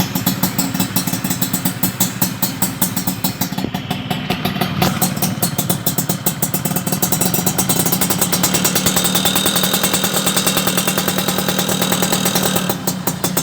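Small two-stroke Suzuki motorcycle engine running through an aftermarket exhaust. It idles unevenly at first, then is held at a higher, steadier speed from about halfway through, with a brief dip near the end.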